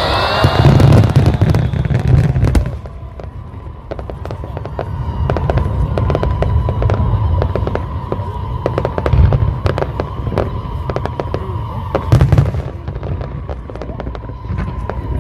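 Aerial fireworks display: repeated deep booming shell bursts amid dense crackling, with a steady high tone running under most of it.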